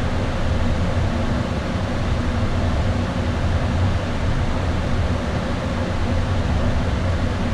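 Steady cockpit noise of an Airbus A320 in flight: a constant rush of airflow and air-conditioning with a low hum and a few faint steady tones beneath it.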